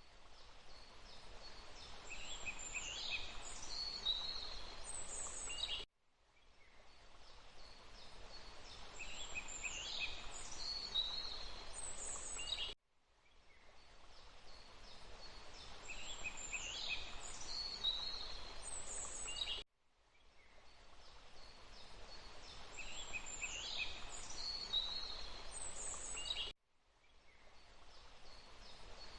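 Birds chirping high over a steady rush of running water, in a short recording that loops about every seven seconds. At each repeat the sound cuts out abruptly and fades back in.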